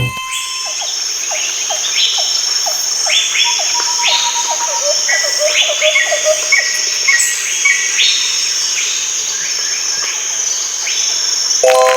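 Birds chirping with many short, quick calls and repeated notes over a steady high insect trill. A pitched tone comes in just before the end.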